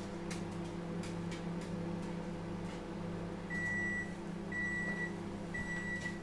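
LG microwave oven running with a steady electrical hum and a few faint clicks. Past the middle it gives three beeps, evenly spaced about a second apart: the end-of-cycle signal.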